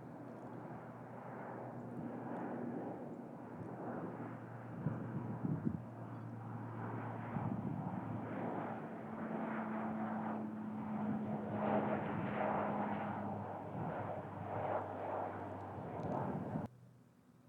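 Airplane flying over: a steady rushing engine noise with a low hum under it, growing louder toward the middle, then cutting off suddenly about a second before the end.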